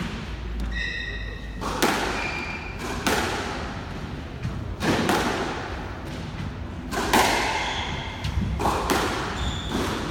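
Squash rally: the ball smacks off racket and walls about five times, each hit ringing in the court's echo, with short squeaks of court shoes on the floor between hits.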